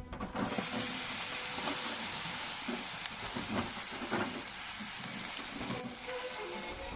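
A steady hissing, sizzling noise that starts suddenly just after the beginning and eases slightly near the end.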